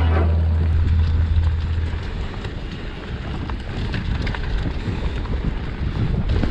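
Wind buffeting the microphone of a camera riding along on a mountain bike, a rough low rumble with scattered light clicks and rattles. The tail of a music track dies away in the first second or so.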